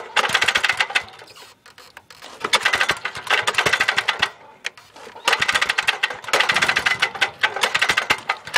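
6 hp Chinese clone engine being cranked over in about four bursts of fast, even clattering clicks, trying to fire but not catching. The engine has a knock that began after it was revved hard.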